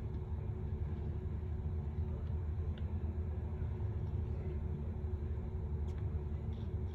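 Steady low rumble of background noise with a faint even hum, and a few light clicks.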